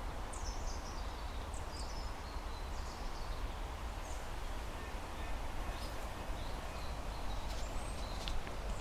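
Small birds chirping in short high calls here and there, over a steady low rumble of wind on the microphone.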